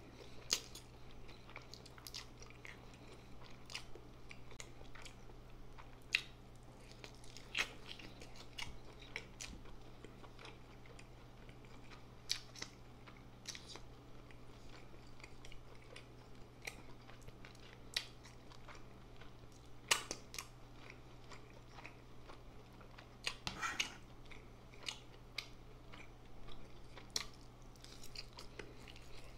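A person chewing mouthfuls of instant noodles close to the microphone, with sharp wet mouth smacks at irregular intervals.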